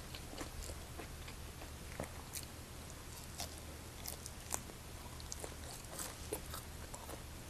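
A person chewing fried beef close to the microphone, with small sharp mouth clicks scattered throughout, over a faint steady low hum.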